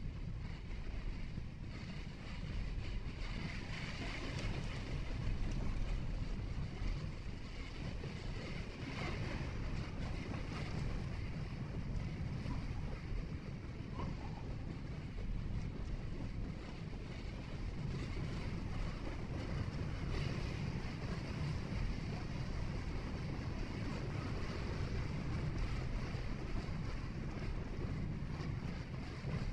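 Steady road noise of a moving vehicle heard from inside: a low rumble of tyres and engine with a fainter hiss of wind.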